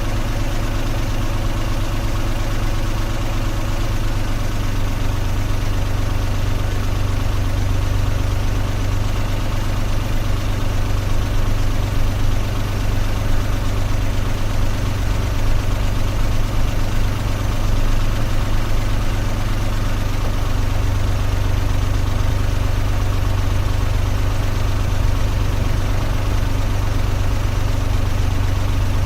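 Car engine idling steadily, a continuous low hum.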